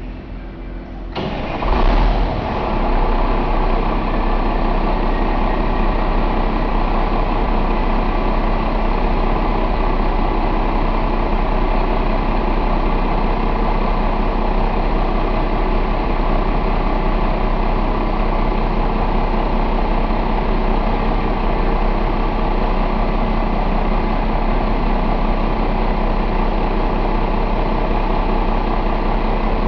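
1990 Cummins Big Cam IV NT855 inline-six diesel engine starting about a second in, briefly louder as it catches, then settling into a steady idle.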